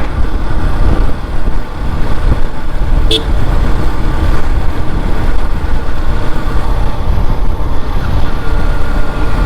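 Yamaha FZS single-cylinder motorcycle running at riding speed, heavy wind buffeting the rider's microphone over the engine. A brief horn toot sounds about three seconds in.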